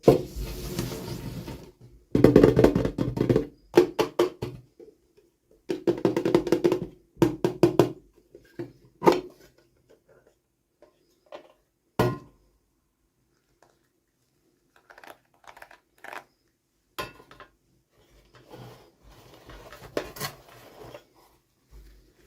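Toy packaging and small plastic miniatures being handled during unboxing: irregular rustling bursts with scattered sharp clicks and knocks, and quiet gaps between them.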